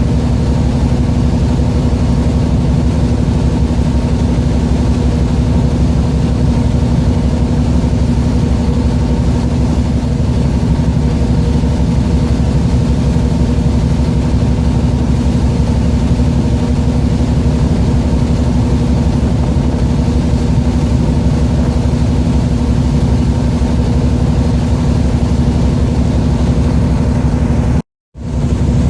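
A fishing boat's engine running steadily with an even low drone. The sound cuts out completely for a moment near the end.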